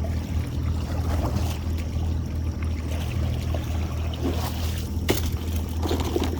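Boat motor running steadily at low speed, with water trickling and splashing close by and scattered clicks, plus one sharp knock about five seconds in.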